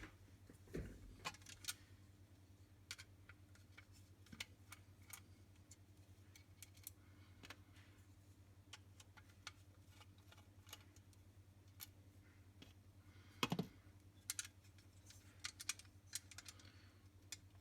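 Faint small clicks and taps of tools and metal parts as a die-cast toy vehicle is taken apart, over a steady low hum. One louder knock comes about 13 seconds in.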